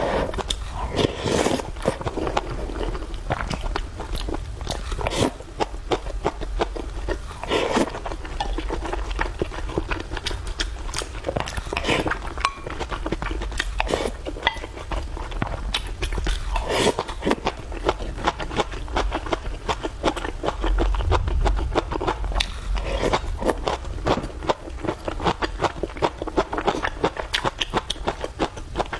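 A person eating, close to the microphone: chewing and biting with many small, irregular mouth clicks.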